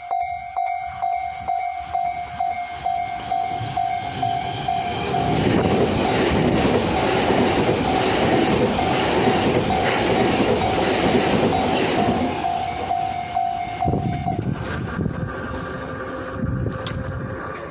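Japanese railway level-crossing alarm bell ringing in quick, regular strokes while a train passes over the crossing. The train's rumble and wheel clatter build from about five seconds in, are loudest in the middle, and fade after about twelve seconds.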